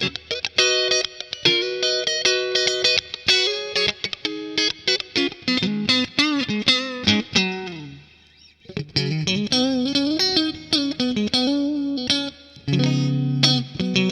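ESP LTD ST-213 electric guitar played through effects: a lead line of quick picked notes with string bends. About eight seconds in, a note is left to fade out briefly before the playing picks up again.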